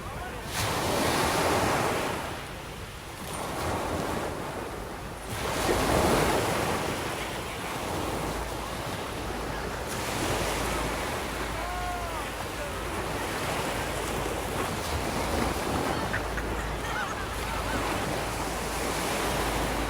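Sea waves breaking on the shore and washing back, surging loudest about a second in and again about six seconds in, then a steady wash. Wind rumbles low on the microphone.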